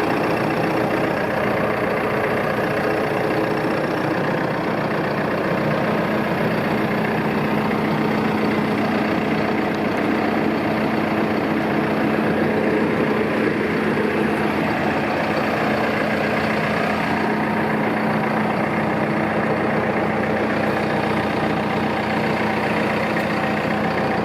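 Landini Powermondial tractor's diesel engine idling steadily.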